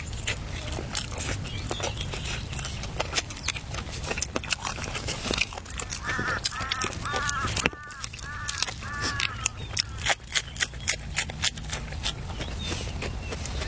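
A bird calling about six times in quick succession around the middle, each call a short arched note, over a scatter of sharp clicks and taps.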